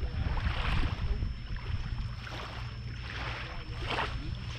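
Wind rumbling on the microphone, with a few short hissing splashes of water.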